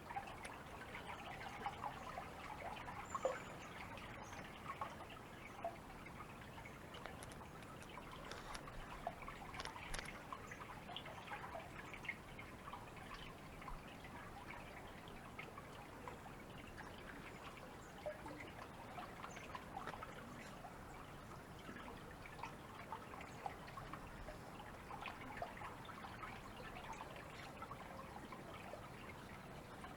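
Water trickling and splashing steadily, with many small drips and splashes scattered through it.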